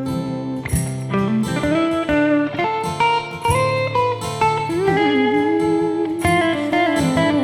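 Band music between sung lines of a pop-rock song: a lead guitar plays sliding, bending notes over a steady bass and regular drum hits.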